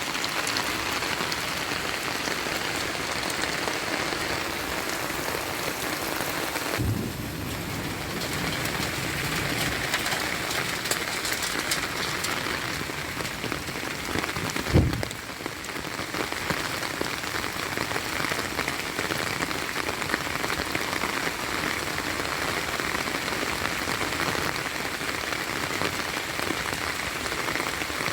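Heavy rain falling steadily, a dense even hiss. A short low thump about a quarter of the way in, and a louder one about halfway through.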